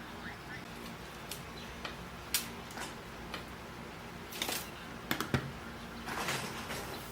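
Small beads being handled and strung for a waist bead strand: scattered light clicks and taps, a quick cluster of them past the middle, and a brief rustle near the end.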